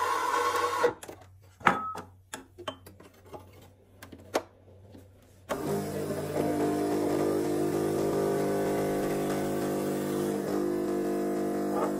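A few clicks and knocks, then about halfway through a household electric appliance switches on and runs with a steady, even hum.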